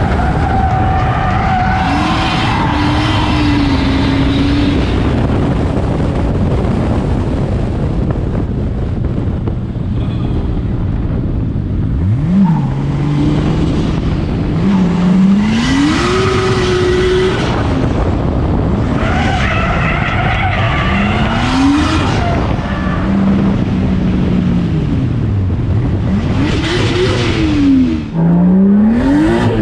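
630-horsepower drift car's engine revving up and down again and again as it drifts, with tyres skidding and squealing at each slide.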